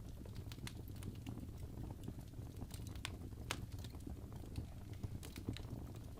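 Wood fire burning in a fireplace: irregular crackles and small pops over a steady low rumble of the flames, with a few sharper snaps about halfway through.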